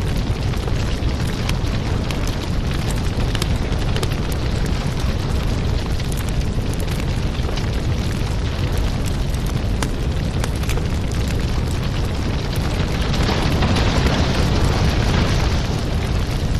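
Wood fire crackling and popping over a steady low roar, with the hiss swelling louder for a few seconds near the end.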